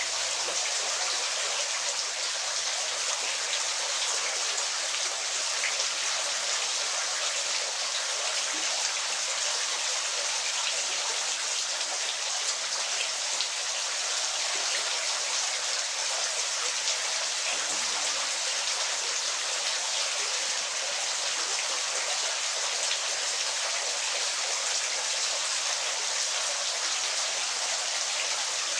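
Waterfall: a steady, even hiss of falling, splashing water that does not change.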